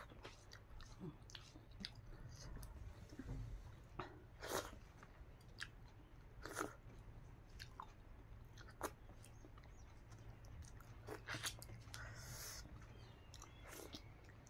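Quiet chewing and mouth sounds of a person eating rice with their hand: scattered short smacks and clicks at irregular intervals.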